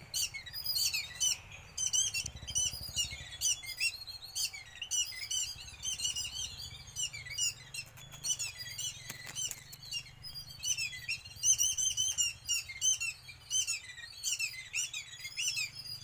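Small birds chirping in a quick, unbroken series of short high notes, several a second.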